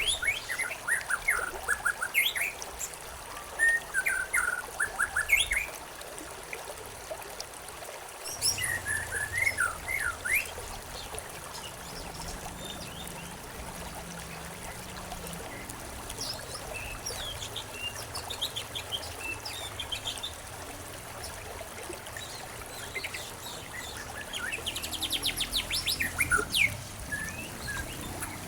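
Songbirds chirping and trilling in short clusters of calls, over a steady trickle of running water.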